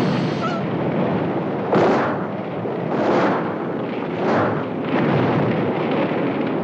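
Gasoline fire exploding in a string of blasts about a second apart over a continuous rushing roar, with screeching gull cries.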